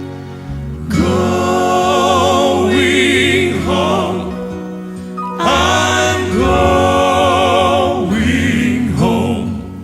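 A male southern gospel quartet sings a slow song with accompaniment. It comes as two long, held phrases with vibrato.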